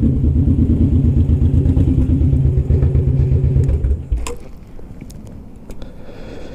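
Suzuki Boulevard M109R's big V-twin running at low speed, heard through a microphone inside the rider's helmet, then cutting off about four seconds in. A few sharp clicks follow.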